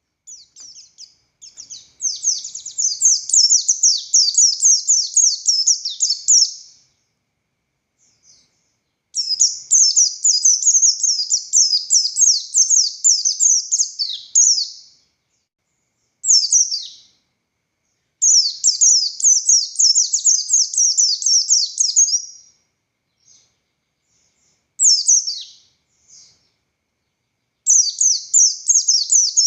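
Buxtoni white-eye (pleci) singing: long runs of rapid, high chattering notes in several phrases of a few seconds each, separated by brief pauses and short single calls.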